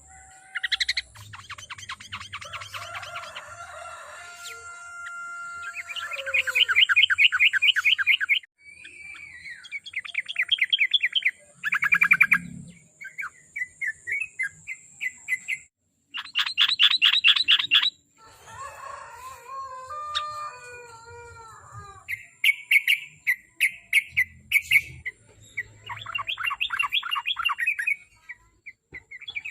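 Sooty-headed bulbul singing: repeated bursts of fast trilled notes, each a second or two long, alternating with shorter warbled phrases. A faint steady high whine sounds behind the song.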